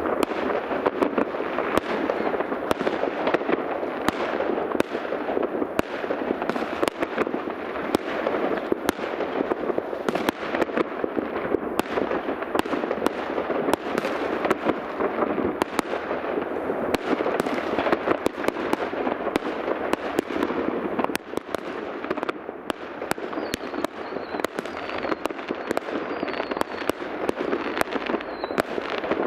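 New Year's fireworks going off all over a city, heard from some distance: a dense, continuous crackling of countless pops and bangs, with a brief lull about three-quarters of the way through.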